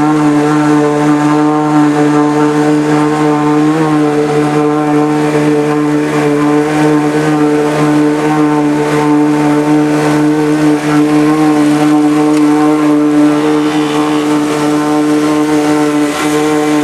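Engine of a home-built Subaru amphibious car running at a steady speed, a loud constant drone that holds one pitch throughout.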